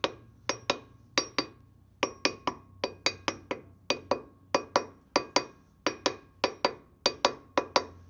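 Hammer tapping repeatedly on a steel part of a Land Rover Defender 90's wheel hub, sharp metal-on-metal strikes that each ring briefly, about three to four a second in quick twos and threes, tapping a stuck part of the hub assembly into or out of place.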